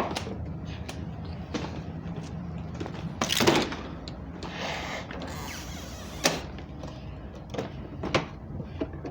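Plastic parts of a Hoover SteamVac carpet cleaner being handled as its filter section, tank and lid trap are opened for checking: scattered clicks and knocks, a louder scrape about three and a half seconds in and a short rushing sound around five seconds.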